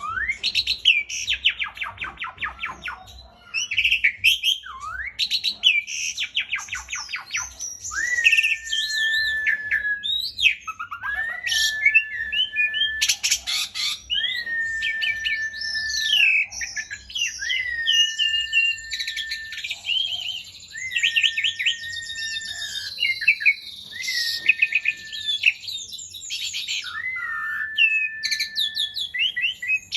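Asian pied starling (jalak suren) in full, non-stop song: fast chattering trills and gliding whistles, with one held whistle that swoops up at its start and comes back again and again. It is a bird in top singing form ('gacor') showing off its learned repertoire (isian).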